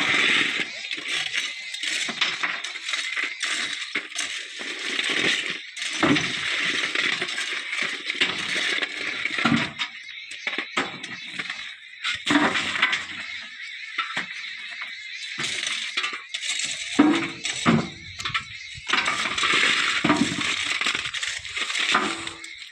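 Loose white stone clattering and crashing in repeated bouts as a JCB 3DX backhoe loader's bucket loads rock into a Tata tipper truck's body.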